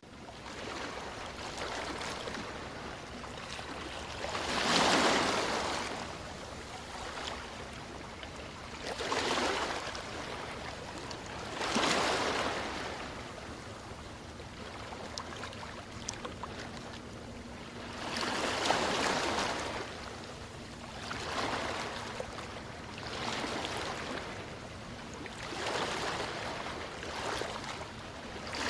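Sea waves washing in and drawing back, one swell every few seconds over a steady hiss of surf.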